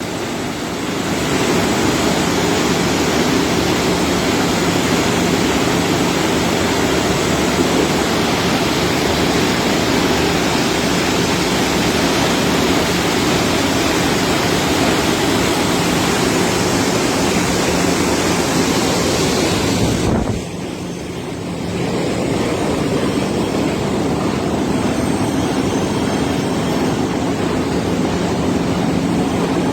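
ABB 500 HP electric motor running steadily on a test run after rewinding: a steady rushing noise with a low hum. The sound drops briefly about twenty seconds in, then returns to the same level.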